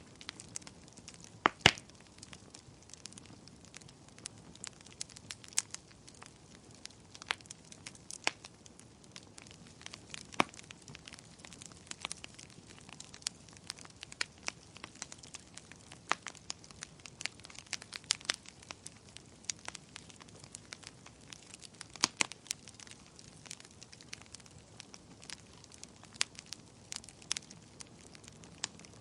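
Wood campfire crackling: irregular sharp pops and snaps over a faint low hiss, with the loudest pops about a second and a half in and again around twenty-two seconds.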